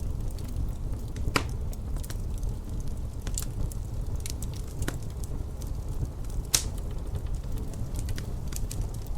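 Wood fire in a fireplace crackling: irregular sharp pops and snaps, two louder pops about a second and a half in and near six and a half seconds, over a steady low rumble.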